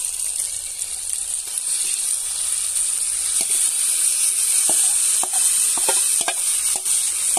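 Marinated chicken sizzling as it goes into hot oil with fried onions and tomato in an iron kadai, the steady hiss growing louder a couple of seconds in. From about halfway, sharp knocks and scrapes of the steel bowl and spoon against the pan.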